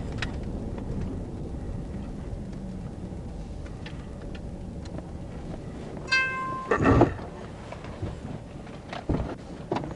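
Steady engine and road rumble from a stopped police patrol car, with a short electronic beep about six seconds in and a loud thump a second later, then a few lighter knocks near the end.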